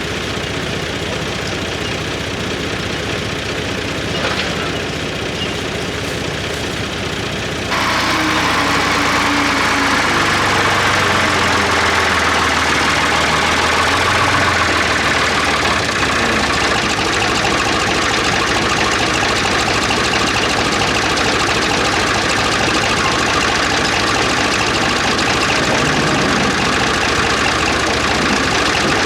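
A vehicle engine idling steadily, getting louder about eight seconds in.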